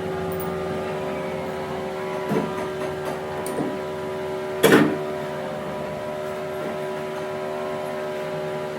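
A workshop machine running with a steady hum. A few metal knocks sound over it, the loudest about halfway through.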